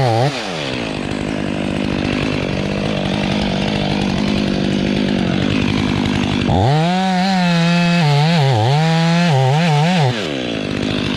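Chainsaw dropping from full revs to a low steady run, then opened up again about six and a half seconds in, its pitch wavering under load as it cuts through silver fir wood. It falls back to a low run near the end.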